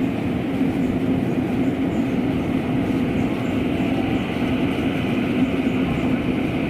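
Rice combine harvester running steadily in the field: a continuous machine drone with a steady low hum.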